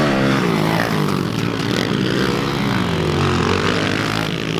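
Small pit bike engines revving up and down as they ride around a dirt track, their pitch rising and falling repeatedly, with more than one bike running at once.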